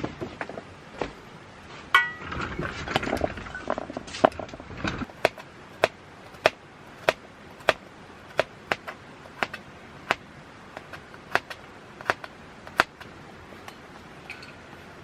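A single ringing metallic clink, a few seconds of clatter, then a run of sharp knocks about every half second to second, stopping a couple of seconds before the end.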